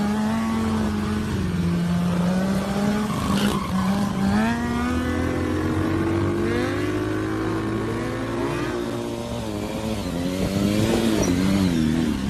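Motorcycle engines running, with several overlapping revs rising and falling in pitch over a steady wavering drone.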